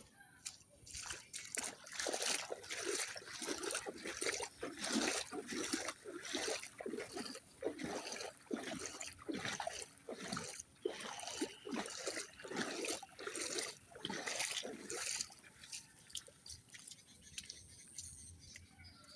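Footsteps wading through shallow floodwater and mud, splashing and sloshing over and over; the splashing stops about 15 seconds in.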